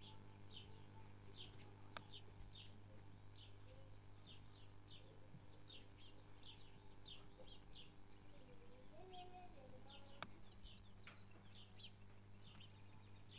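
Small birds chirping faintly in quick repeated short chirps, several a second, over a steady low hum.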